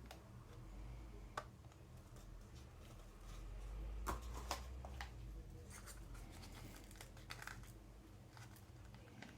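Faint handling sounds: scattered light clicks and taps, a few together about four seconds in, with some crinkling over a low steady hum.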